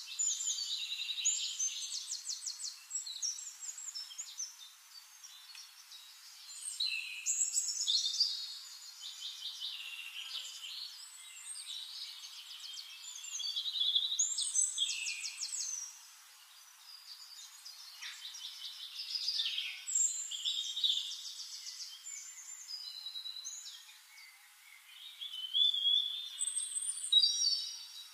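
Birds singing: bursts of high-pitched chirps and fast trills every few seconds.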